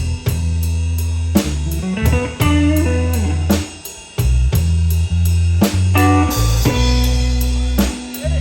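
Blues band playing live in the key of B: guitar over a bass line and drum kit with a steady beat, with no singing.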